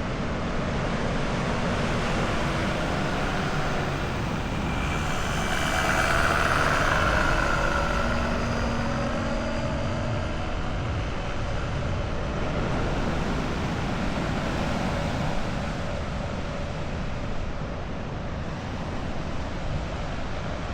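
A motor vehicle passing by, swelling to its loudest about six seconds in and dropping in pitch as it moves away, over a steady rushing background noise.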